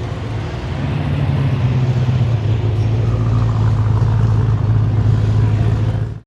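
A car engine running steadily at low revs with a deep, even rumble that grows louder after about a second, then cuts off suddenly.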